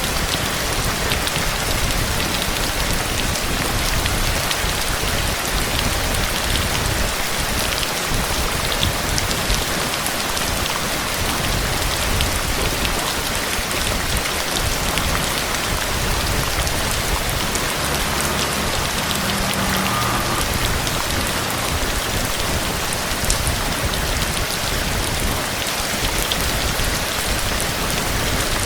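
Steady rain: a dense, even hiss with individual drops ticking on a surface.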